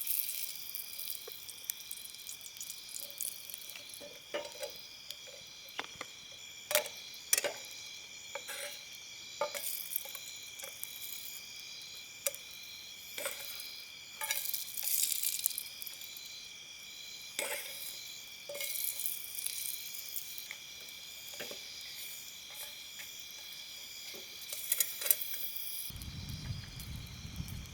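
Papad frying in hot oil, sizzling in spells, with scattered sharp clicks of a utensil. A steady, pulsing insect chorus runs underneath.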